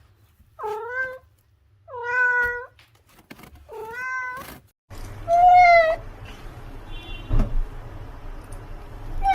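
Domestic cat meowing: three separate meows, each under a second long. Then, over a steady background hiss, a louder, higher meow, followed by a short low thump.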